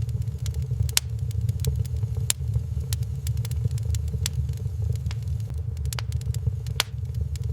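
Wood fire burning in a fireplace: irregular sharp crackles and pops of burning wood, a few a second, over a steady low rumble.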